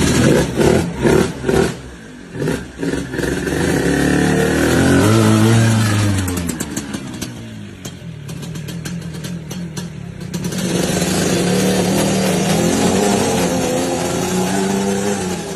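Racing engines revving, their pitch rising and falling as they pass, then a steadier engine drone from about ten seconds in.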